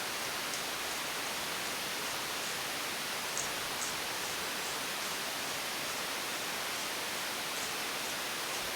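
Steady, even hiss of background noise, with a few faint, light clicks a little past the middle.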